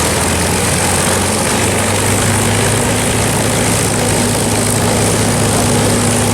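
Propeller aircraft engine running steadily, a deep even drone with a second, higher tone joining in about two seconds in.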